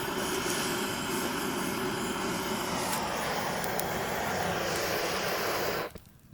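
Handheld butane gas torch blowing a steady jet of flame to light firewood, shutting off suddenly near the end.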